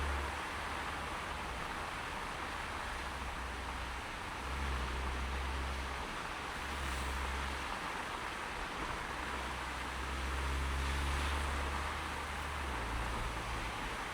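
Car driving through snowy city streets: steady hiss of tyre and road noise, with a deep low rumble that swells and fades several times.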